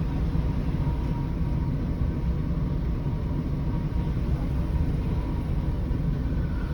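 Scania 113's six-cylinder diesel engine running steadily under way, a low even drone with road noise.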